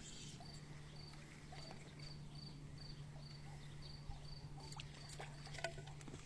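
Faint insect chirping, a high even pulse repeating about two and a half times a second, over a low steady hum and a few soft clicks.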